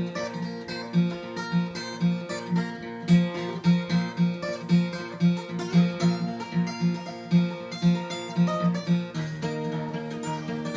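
Solo acoustic guitar playing an instrumental break, fingerpicked with a steady pulsing bass note under picked treble notes, in CGDGBE tuning capoed at the third fret. About nine seconds in the bass pattern changes to a held note.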